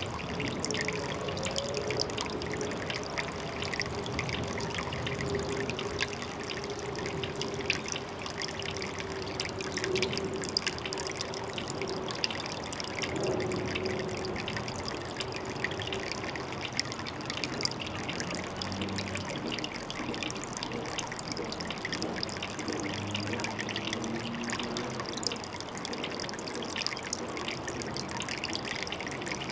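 Water trickling steadily at a pond, with many fine splashes. A faint steady hum runs underneath for about the first half, then fades.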